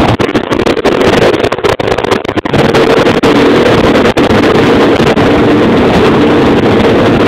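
Baja X250 Extreme dirt bike engine running loudly, choppy with brief dips for the first couple of seconds, then holding a steady note after the carburetor adjustments.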